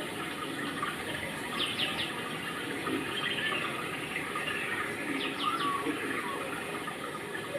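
Steady rushing background noise, like running water, with two short runs of three quick bird-like chirps, one about two seconds in and another a little after five seconds.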